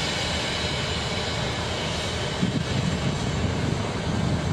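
Diesel locomotive and train running past, a steady engine and rail noise whose hiss fades away over the last couple of seconds.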